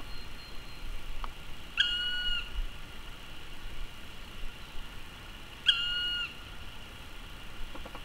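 A bird gives two clear whistled notes about four seconds apart, each held for about half a second after a slight dip in pitch at its start.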